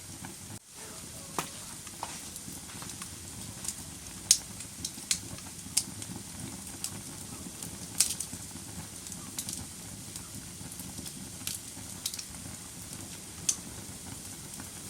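Wood fire burning in a fireplace: a steady hiss broken by irregular sharp crackles and pops, the loudest about four and eight seconds in. The sound drops out briefly just under a second in.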